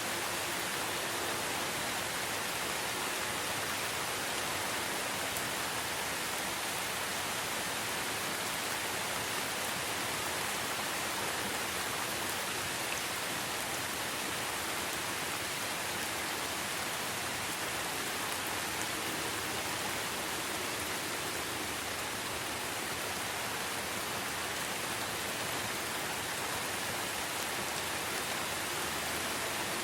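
Steady rain falling in a forest: an even, unbroken hiss of raindrops.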